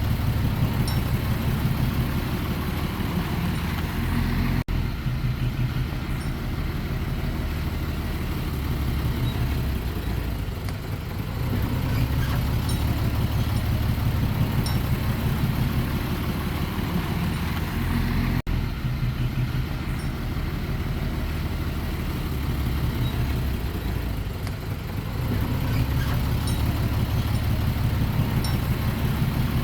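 Heavy diesel engine of earthmoving machinery running and working, its level swelling and easing several times as the load changes, with two very brief dropouts.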